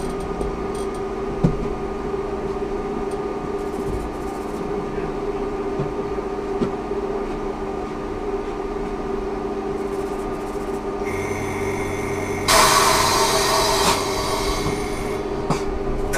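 Ikarus 280T GVM trolleybus running, with a steady electrical hum throughout. A higher whine joins about eleven seconds in, and a loud hiss rises abruptly about a second later and lasts over a second.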